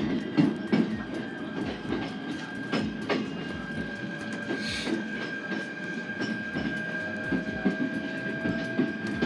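SR1 series electric train running, heard from inside the car: wheels click over rail joints at uneven intervals above a steady rumble. A faint motor whine is heard, one tone of which rises slightly.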